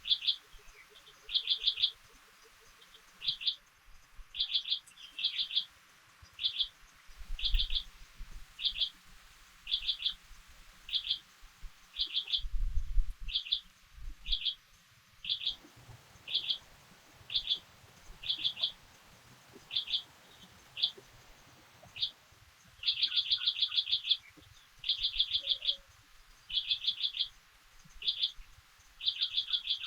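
A bird calling over and over: a short, high, rapid chirp about once a second, stretching into longer chattering runs near the end. A few soft low thumps sound underneath.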